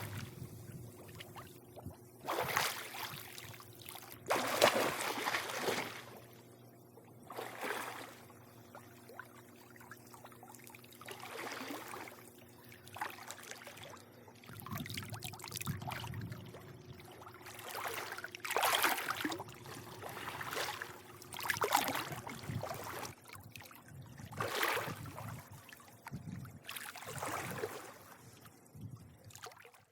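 Swimming-pool water lapping and sloshing in irregular surges every second or two, over a faint steady hum.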